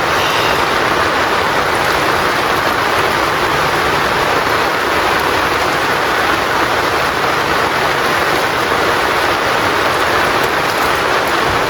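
Heavy rain falling steadily, a loud, even hiss of water.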